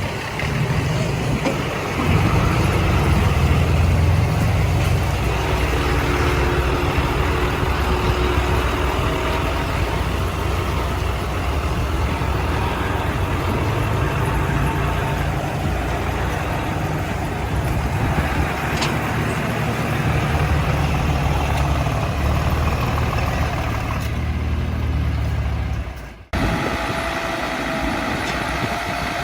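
Heavy diesel earthmoving machinery running steadily, a deep engine rumble that grows louder about two seconds in. The sound cuts out abruptly for a moment near the end, then resumes.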